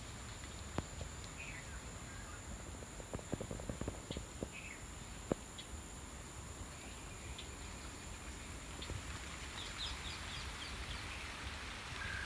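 Outdoor natural ambience: birds chirp briefly now and then, with a quick trill near the end, over a steady high-pitched whine. Scattered sharp clicks and taps, a quick run of them about three to four seconds in.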